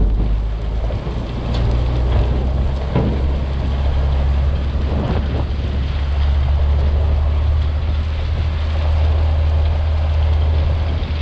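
International S1900 dump truck's DT466 diesel engine running steadily, a deep drone with a few faint knocks over it.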